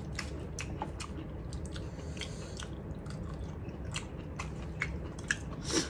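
People chewing a meal of rice and vegetables eaten by hand: soft chewing with scattered small clicks.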